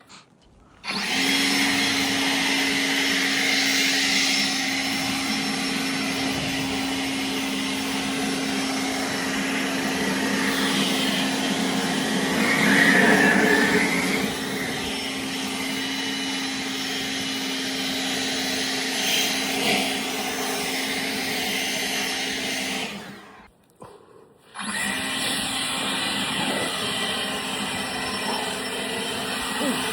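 Leaf blower running steadily with a constant hum, blowing snow off a car. It shuts off about 23 seconds in and starts up again a second and a half later.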